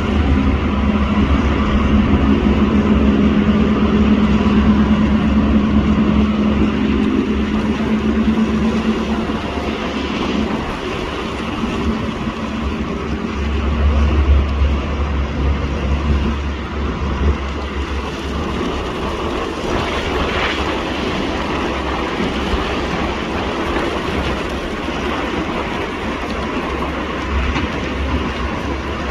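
A rail vehicle running with a steady low rumble and an engine drone that fades back after about nine seconds; the rumble swells briefly around the middle.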